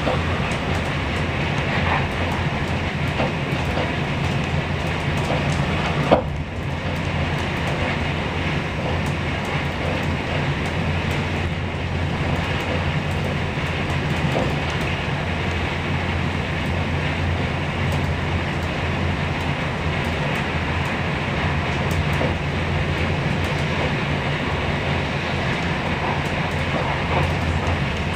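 Steady rumble and rushing noise of a moving passenger train heard from inside the carriage, with a few faint clicks from the wheels and one sharp knock about six seconds in.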